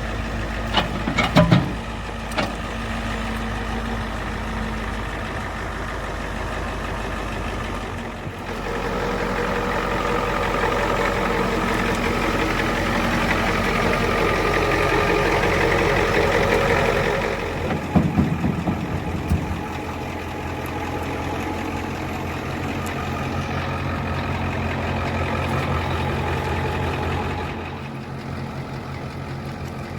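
1990 Ford F350 dually dump truck's engine running steadily. It gets louder about a third of the way in and eases back a little past the middle. A few sharp metal clanks come near the start and again just past the middle.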